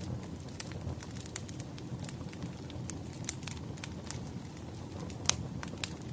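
Wood fire crackling: a low steady rumble under scattered sharp pops, the loudest about five seconds in.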